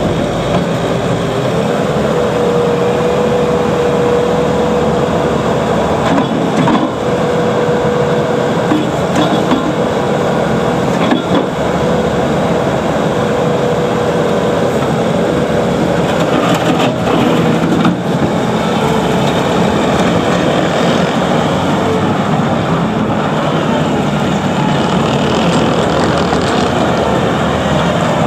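A vehicle running with a steady noisy rumble and a thin steady whine that fades out a little past the middle, with a few sharp clicks here and there.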